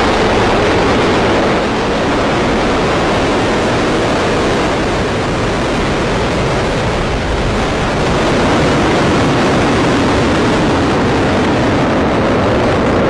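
Atlas V 401 rocket's RD-180 first-stage engine running at full thrust just after liftoff: a steady, loud rushing noise.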